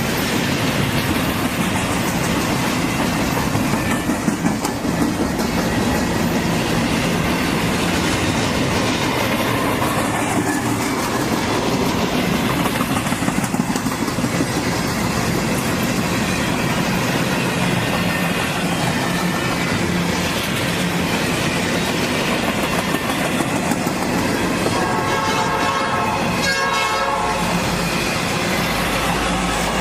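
A Norfolk Southern train rolling past close by, railcars clattering steadily over the rails. Near the end there is a brief pitched tone.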